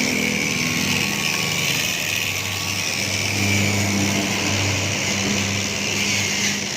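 Steady engine-like mechanical noise with a constant hiss; a low hum grows stronger about a third of the way in and fades near the end.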